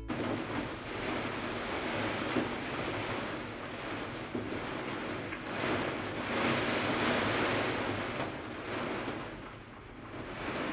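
Typhoon wind gusting, a rushing noise that swells and fades every few seconds.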